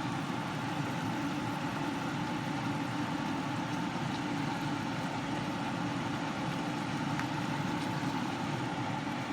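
Steady, unchanging mechanical hum of a motor or fan.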